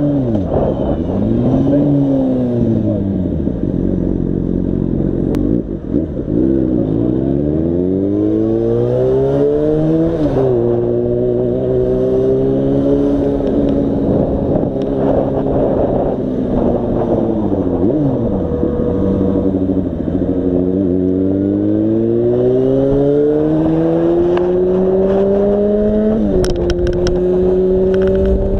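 Yamaha FZ6's inline-four engine pulling through the revs and easing off, its pitch climbing and falling several times. The pitch drops sharply at gear changes about ten seconds in and again near the end.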